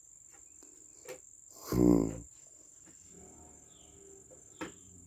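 Steady high-pitched drone of crickets or other insects. About two seconds in, a brief low voice sound such as a murmured 'mm' is the loudest thing, and there are a couple of sharp clicks and faint short chirps.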